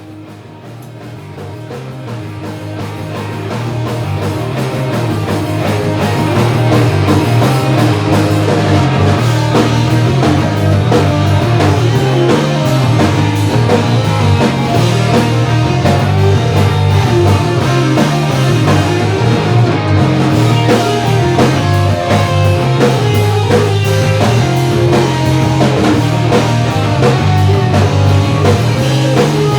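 Rock music from a band with guitars, bass and drums, fading in over the first six seconds or so and then playing steadily at full level.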